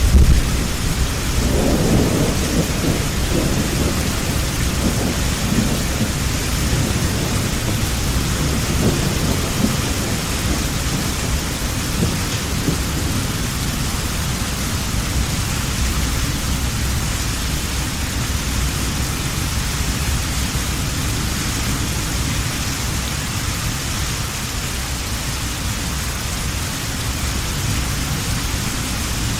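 Heavy rain falling steadily through a thunderstorm, with a deep rumble of thunder at the start that fades away over the first ten seconds or so.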